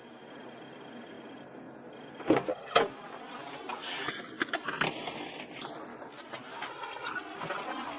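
Car road noise, then two loud bangs about half a second apart, followed by scattered lighter clicks and rattles.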